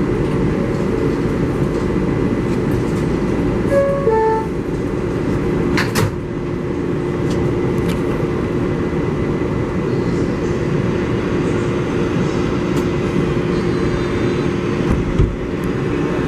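Inside an R188 subway car on the 7 line: the steady rumble of the train with a constant motor hum. A short two-note chime sounds about four seconds in, and a sharp knock follows about two seconds later.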